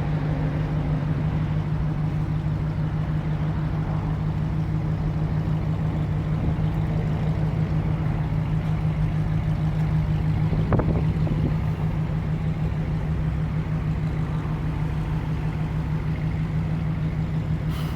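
Car engine idling steadily with a fast even low pulse, and one short knock about eleven seconds in.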